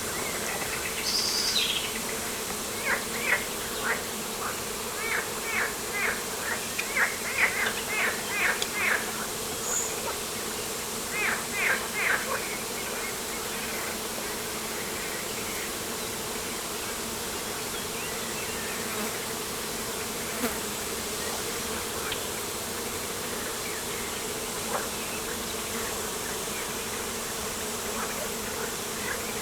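Outdoor ambience with a steady insect-like buzzing hum. Over it, a bird gives quick runs of short chirps during the first twelve seconds or so, then falls quiet.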